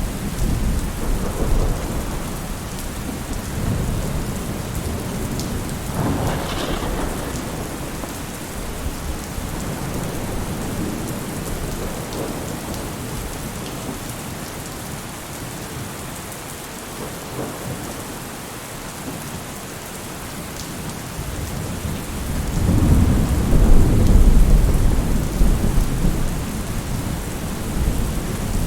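Steady rain with thunder: a sharp crack about a quarter of the way in, and a long, loud low rumble of thunder building near the end.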